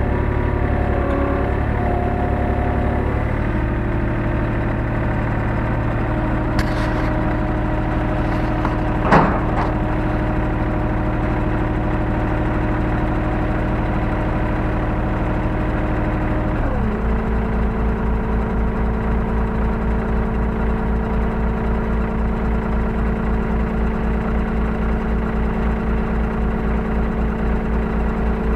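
Hyundai R35Z-9A mini excavator's diesel engine and hydraulics running, heard from inside the cab. The pitch shifts a few seconds in and there is a sharp click near the middle. About two-thirds of the way through it settles into a lower, evenly pulsing idle.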